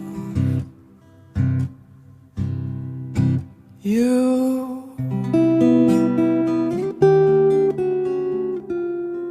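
Acoustic guitar playing alone: a few separate strummed chords, a chord that slides up in pitch about four seconds in, then a run of picked notes opening the next song.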